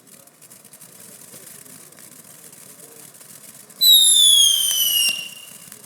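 A whistle effect from a Megabanger Stay Wild MB-7508 fireworks cake shrieks once, about four seconds in. Its pitch falls steadily over about a second and a half before it fades.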